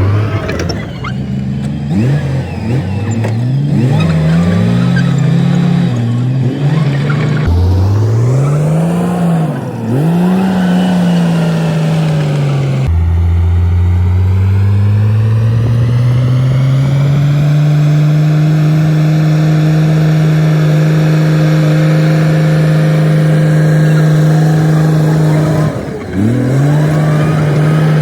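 Komatsu D58P bulldozer's diesel engine working, its pitch rising and falling repeatedly as it is revved and loaded. About halfway through the sound changes abruptly, then the engine speed climbs and holds steady, with a brief drop near the end.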